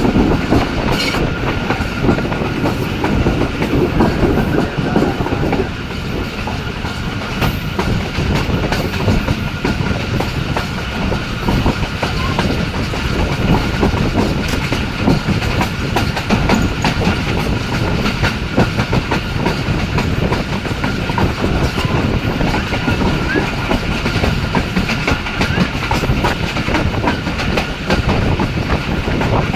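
Jaffar Express passenger train running at speed: a continuous heavy rumble with the rapid clickety-clack of wheels over rail joints.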